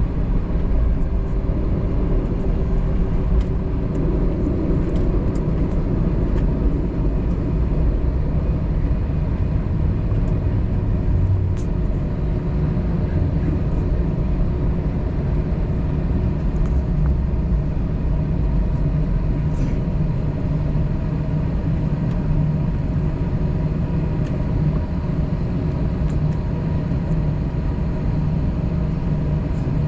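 Airbus A321 cabin noise while the airliner rolls onto the runway with its engines at idle: a steady low rumble, with a faint steady tone that fades out over the first several seconds.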